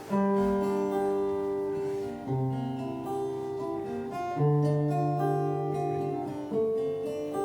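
Instrumental song intro: an acoustic guitar plays chords, with the chord and bass note changing about every two seconds.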